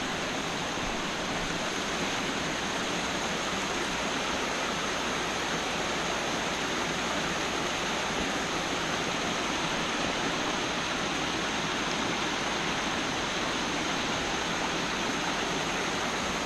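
Waterfall in a mountain stream, water pouring and splashing in a steady, unbroken rush.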